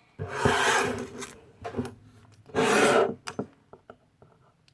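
Two spells of scraping, the first about a second long, the second shorter about two and a half seconds in, with light knocks between and after: a spoon and bowl of salted dish-soap slime being handled and worked.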